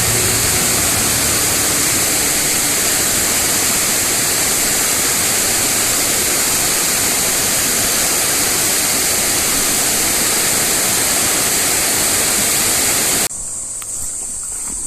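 Steady, loud rushing noise with a high steady hiss over it. About a second and a half before the end it cuts off suddenly to a much quieter outdoor background of high insect-like droning.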